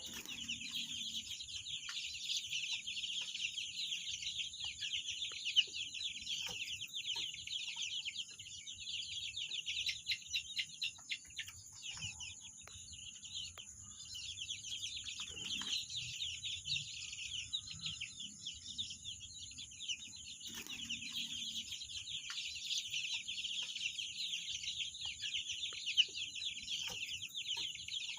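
Chickens clucking now and then over a steady high-pitched chirring that never lets up.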